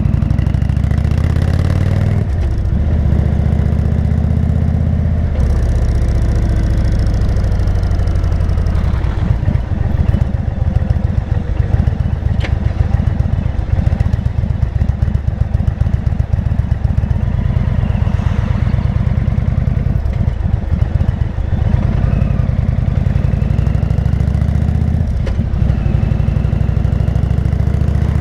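Motorcycle engine running on the move, a loud low exhaust note whose pitch shifts several times as the rider changes throttle and gears.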